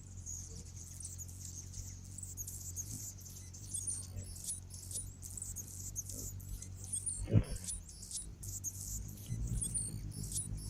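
Hummingbirds giving rapid, thin, high-pitched squeaky chips over and over, over a steady low hum. A single dull thump comes about seven seconds in.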